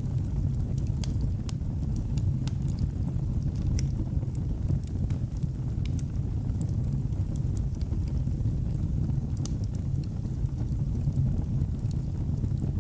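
Fireplace fire crackling: a steady low rumble of flame under scattered sharp pops and clicks at an uneven pace.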